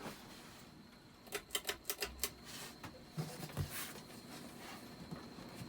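Ceiling fan's pull-chain switch being worked to high: a quick run of clicks and chain rattle about a second and a half in, then a few softer knocks. Afterwards the fan runs with a faint steady high whine.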